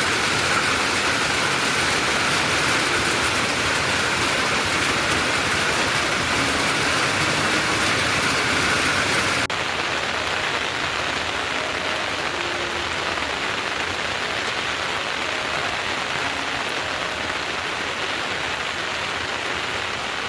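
Steady rain falling, turning slightly quieter and duller at a cut about nine and a half seconds in.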